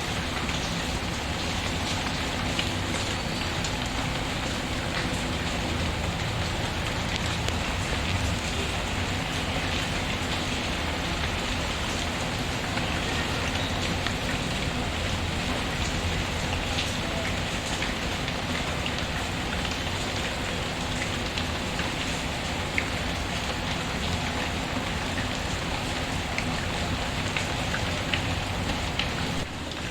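Steady, dense rain falling on a surface, mixed with scattered small crackles of a wood fire. The level dips briefly near the end.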